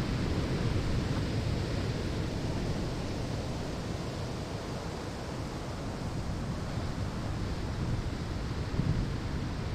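Ocean waves washing onto a sandy shore: a steady low surf rush with gentle swells near the start and again near the end.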